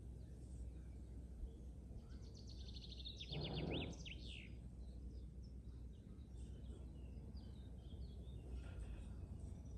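A songbird sings a fast trill of high, rapidly repeated falling notes about two seconds in, lasting some two seconds, over faint scattered bird chirps and a steady low rumble. A brief, louder low sound comes in the middle of the trill.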